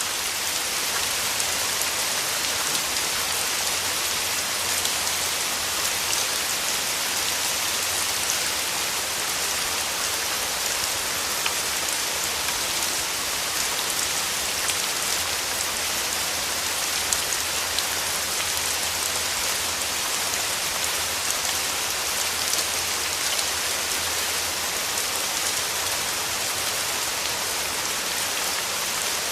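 Steady rain falling, with a dense patter of drops hitting surfaces.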